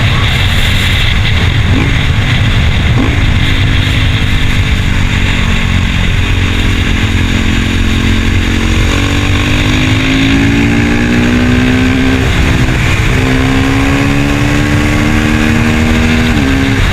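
KTM Duke 390 Gen 3's single-cylinder engine running while riding, its note climbing slowly and then dropping sharply a few times as gears change. Heavy wind rumble on the microphone.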